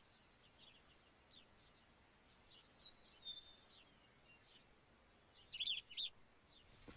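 Small birds chirping intermittently over faint background hiss, with short sliding whistles in the middle and a loud quick cluster of chirps near the end. A brief rustling noise comes just at the close.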